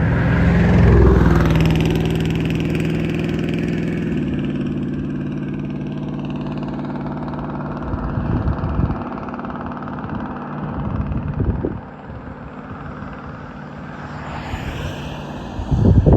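A motor vehicle's engine runs steadily, loudest about a second in, then slowly fades away as it passes and moves off. Wind gusts buffet the microphone several times.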